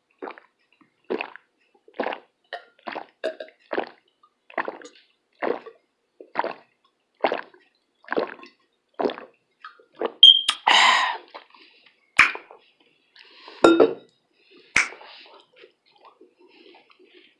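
Close-miked gulps of water, about a dozen swallows roughly one a second. Then a longer, louder breathy sound and a few sharp knocks.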